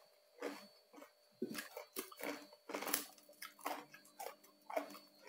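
Close-up chewing of crunchy roast pork crackling: irregular short crunches and mouth sounds, several a second.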